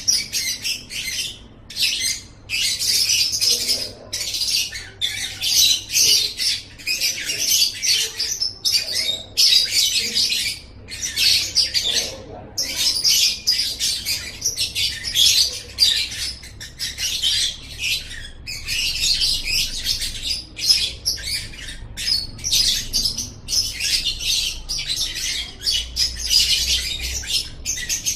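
Lovebird singing: a long, fast run of high-pitched chattering and squeaky calls, almost continuous with only brief breaks.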